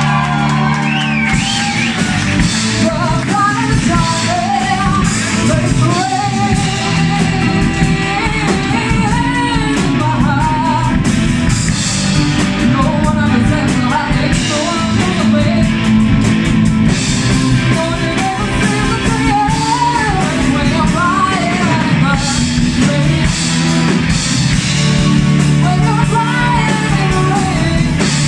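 Rock band playing a song, with a wavering lead melody and singing over guitar and a steady low accompaniment.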